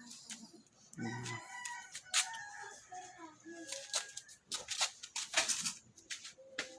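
Several sharp metal knocks as the lock ring holding a motorcycle's fuel gauge float in its tank is tapped round clockwise to loosen it. Earlier, a long drawn-out animal call sounds in the background.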